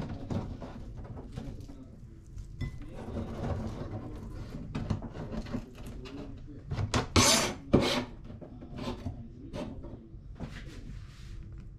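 Kitchen handling sounds while cooking: scattered knocks, taps and scraping of utensils and kitchenware, with a few louder knocks about seven to eight seconds in.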